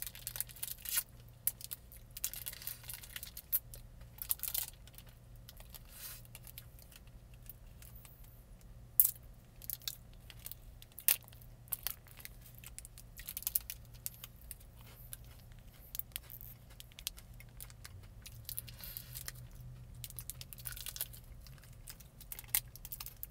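A plastic Kit Kat wrapper crinkling in short bursts, with sharp clicks and crunches as the wafer bar is bitten and chewed, over a faint steady low hum.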